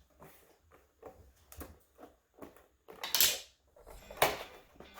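A small cardboard package being handled and opened: a run of light taps and scrapes, a brief scraping rustle about three seconds in, and a sharp snap just after four seconds.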